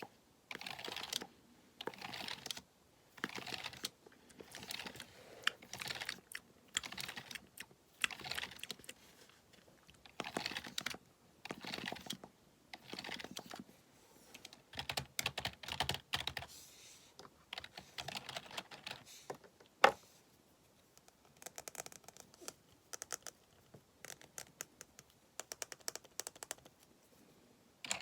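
Computer keyboard being typed on in quick bursts of clattering key clicks, each run lasting about a second with short pauses between. One single sharp click stands out louder about twenty seconds in.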